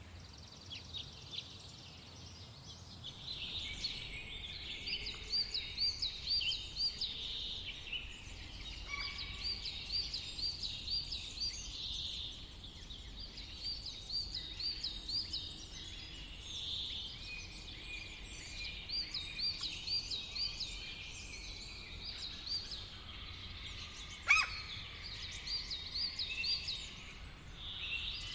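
Several wild songbirds singing over one another, one of them repeating a short phrase of quick up-and-down notes every few seconds. The chorus is thinner for the first few seconds. A single sharp tap sounds about three-quarters of the way through.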